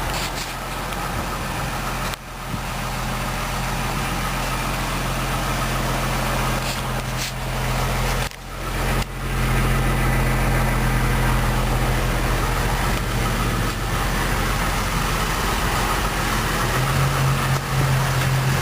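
2003 GMC Envoy's Vortec 4200 inline-six idling steadily. The sound drops out briefly about two seconds in and again around eight seconds in.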